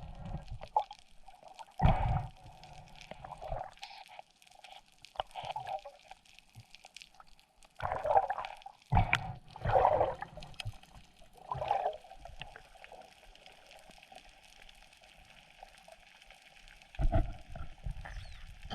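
Underwater water sound: bubbling and gurgling that comes in several separate bursts, with a faint steady murmur of water between them.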